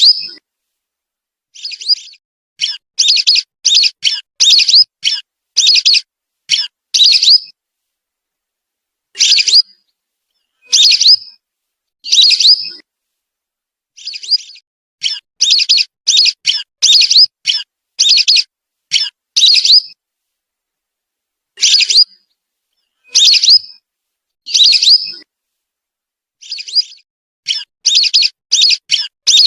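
Whistling duck (belibis) calls used as a lure recording: runs of short, high whistled notes, several a second, alternating with single longer calls, with silent gaps between them.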